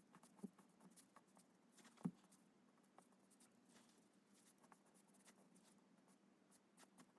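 Faint strokes and light, scattered taps of a drawing tool on paper, with one sharper tap about two seconds in.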